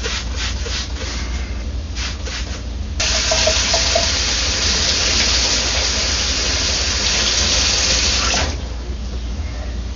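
Running water rinsing a washing machine's small breather filter, flushing out debris, starting about three seconds in and stopping abruptly about five and a half seconds later. A few light handling clicks come before it.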